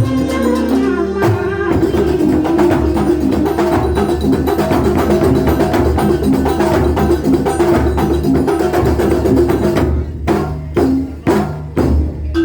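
Live Banyuwangi kuntulan ensemble playing: dense, fast percussion over held pitched tones. About ten seconds in the texture breaks into separate loud strikes, roughly two a second.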